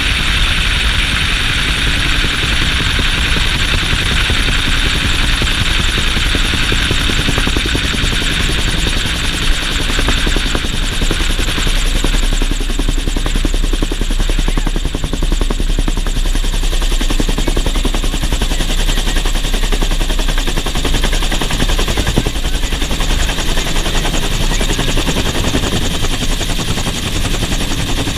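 Bell UH-1 Huey helicopter in flight, heard from aboard: the steady, rapid beat of its main rotor together with turbine whine and wind noise.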